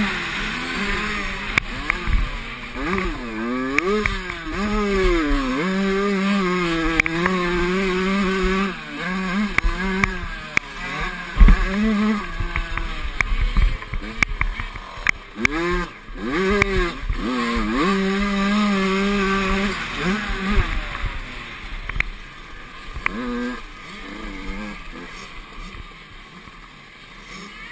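Motocross bike engines revving hard, the pitch climbing and dropping again and again as they accelerate and shift through the gears, with a sharp thump about eleven seconds in; the engine sound fades away after about twenty seconds.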